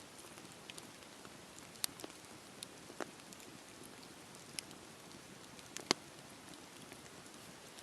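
Campfire burning: a soft steady hiss with scattered sharp crackles and pops from the burning wood, the loudest pop about six seconds in.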